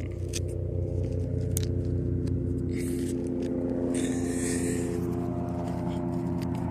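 Steady low drone of a motor vehicle's engine running, with light clicks and a scratchy rustle of fabric close by, loudest about four seconds in.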